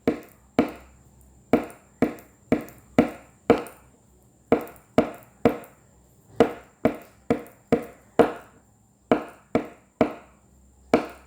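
Sharp knocks tapped on a tabletop in a steady repeating rhythm of short groups: the 'stuk-ritm' pattern of one, then three, then four taps, tapped over and over as a speed-reading drill.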